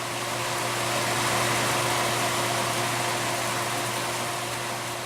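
Wind noise: a steady rush of air with a low hum beneath it, swelling up and then slowly fading.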